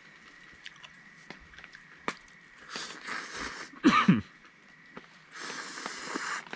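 Ramen noodles being slurped in two hissy stretches of about a second each. A short, loud, falling vocal sound comes between them, about four seconds in. Faint scattered clicks are heard throughout.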